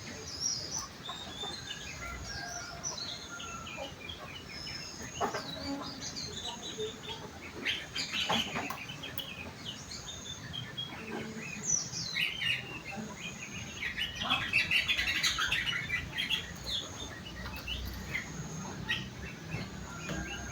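Sooty-headed bulbul (kutilang) singing a busy run of short, varied chirps and whistled slides, its song filled with phrases learned from rengganis and cucak wilis birds.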